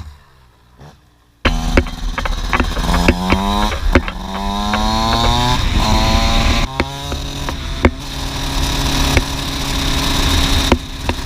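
KTM 85 two-stroke dirt bike engine starting up loud after a second and a half of quiet and accelerating hard, its pitch climbing and dropping back at each gear change, twice, before running steadier at speed. Sharp knocks come through now and then.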